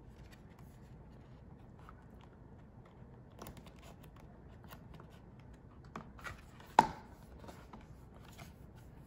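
A picture book being handled and its pages turned: faint paper rustles and a few light taps, the sharpest about two-thirds of the way through.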